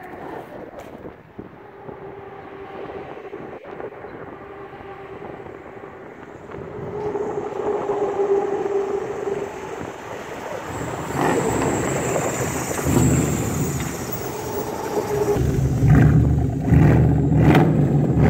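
The Bravada's swapped-in 5.7 Vortec V8 running through its custom exhaust, growing louder in stages and loudest near the end.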